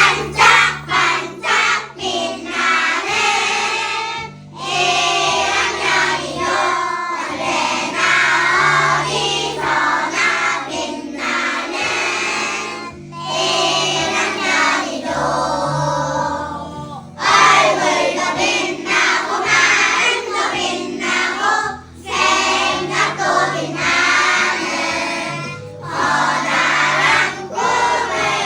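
A children's choir singing a cheerful children's song in phrases over a steady musical accompaniment.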